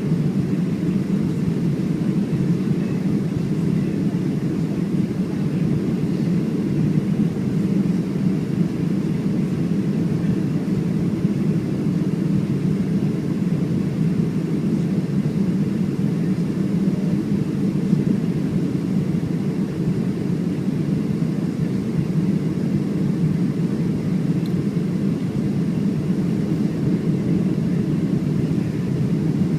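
Cabin noise inside a Boeing 737-700 in flight: a steady, low rumble of airflow and engines that does not change.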